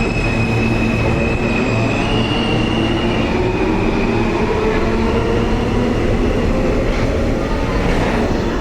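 New York City subway train running: a loud, steady rumble. A drawn-out high squeal sounds over it in the first few seconds, and a lower tone rises slowly around the middle.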